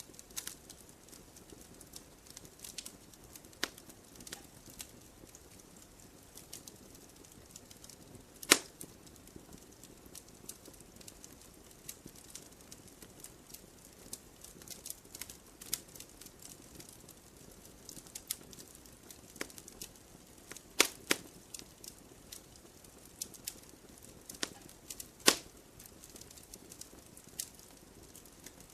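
Fireplace fire crackling, with irregular small clicks over a low steady hiss and a few louder sharp pops, about a third of the way in and twice near the end.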